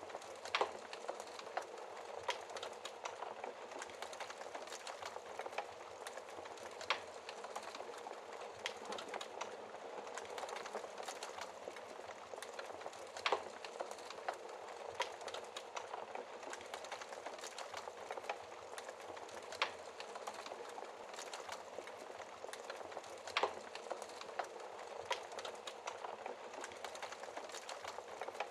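Wood fire crackling in a fireplace: a steady hiss with constant small crackles and an occasional louder pop every few seconds.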